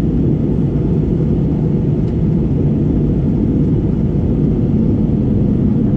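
Steady low rumble inside the cabin of an Airbus A320neo airliner in flight, engine and airflow noise, with a faint steady hum.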